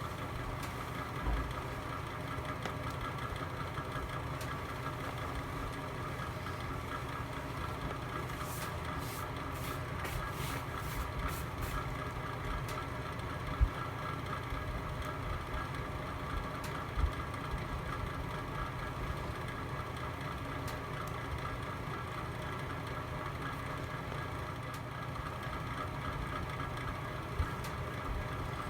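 Fire burning in a home fireplace: a steady low rumble with a few sharp pops scattered through, the loudest just under halfway, and a short run of faint high crackles around a third of the way in.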